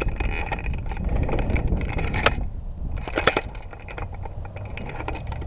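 Footsteps crunching through dry brush and leaf litter, with two sharp snaps about two and three seconds in, over a steady low rumble on the microphone.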